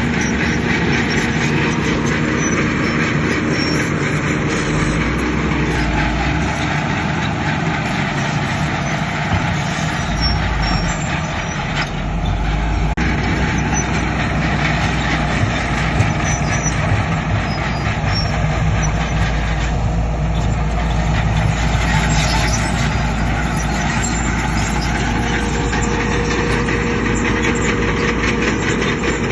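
Heavy diesel construction machinery running steadily: bulldozer and dump truck engines working, their note shifting and deepening about halfway through.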